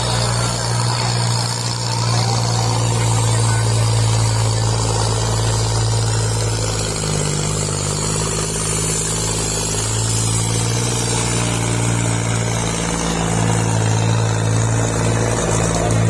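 Tractor diesel engine running hard and steady, a loud low drone whose pitch shifts a few times, as when pulling a disc harrow under load.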